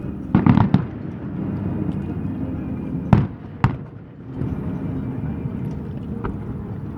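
Fireworks exploding: a quick cluster of three or four bangs about half a second in, two more sharp bangs around three seconds in, and a fainter one near the end, over a steady low rumble.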